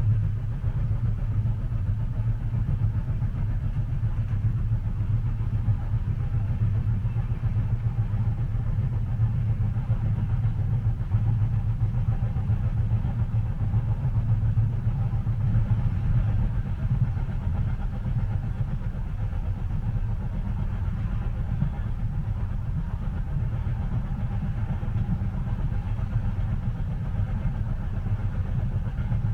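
Steady low rumble of a train heard from inside a passenger cabin, with a faint hiss above it, running on evenly.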